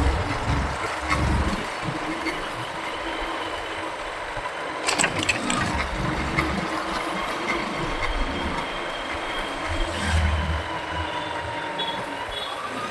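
Motorcycle riding in city traffic: the engine and road noise run steadily under the noise of surrounding vehicles, with low rumbling gusts near the start and again about ten seconds in, and a few sharp clicks about five seconds in.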